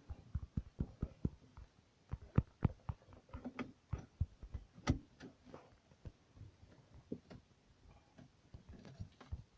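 Irregular light clicks and knocks, like small hard objects being handled and set down, with a sharper knock about five seconds in.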